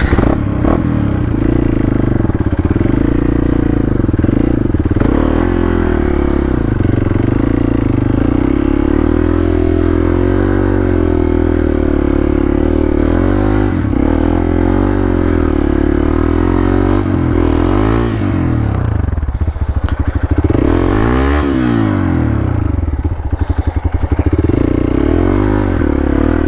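Motorcycle engine running with the throttle worked unevenly, the revs wavering throughout. About three quarters of the way through, the revs fall away and climb back up, as the bike is ridden through deep mud.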